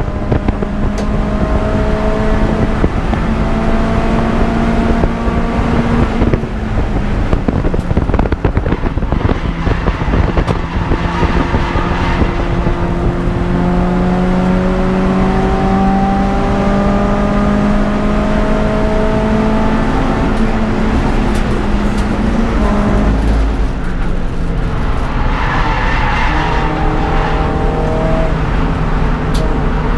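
Peugeot 206 GTI's four-cylinder petrol engine driven hard on a race circuit. It climbs in pitch through the revs several times, with drops as it changes gear or lifts off.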